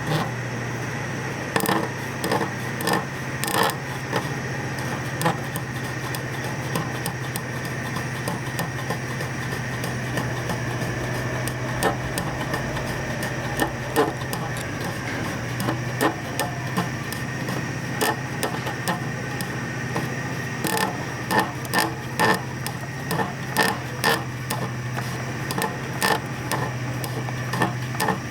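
MAX AK-615PII air compressor running with a steady low hum and a faint high whine, with irregular sharp clicks and knocks over it.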